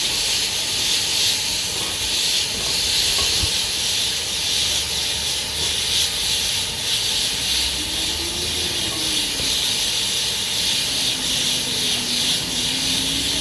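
Steady hiss of steam escaping from GWR 4575-class prairie tank locomotive 5541 as it stands taking on water.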